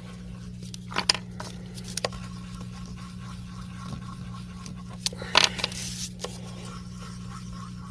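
Wax crayon scratching on paper as circles are coloured in, in a few irregular scratchy strokes, the busiest cluster about five seconds in, over a steady low hum.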